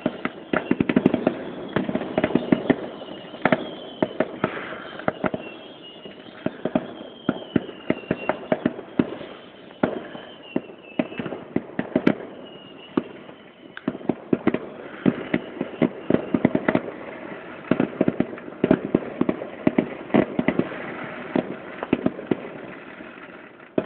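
Fireworks going off in rapid, irregular succession: many sharp bangs and crackles, with a wavering whistle through the first half.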